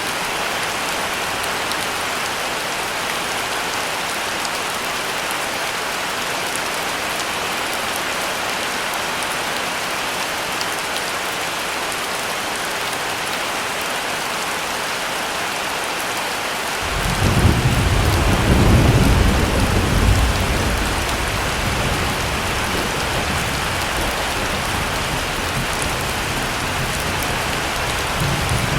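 Heavy rain falling steadily. About seventeen seconds in, a low rumble of thunder rolls in, loudest for three or four seconds, then carries on as a softer rumble under the rain.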